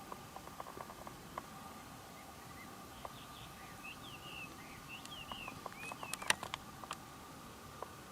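A bird calling in a quick series of short chirps and whistles for a few seconds in the middle, over a faint steady tone and scattered light ticks.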